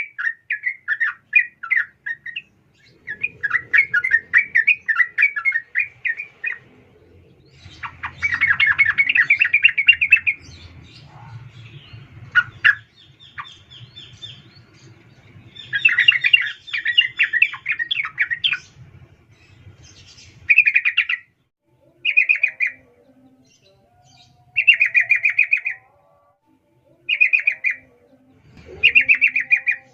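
Female yellow-vented bulbul (trucukan) calling: bubbly, chattering phrases, at first nearly continuous, then in short bursts of about a second, repeated every one to two seconds. This is the call used as a lure to rouse male bulbuls into singing.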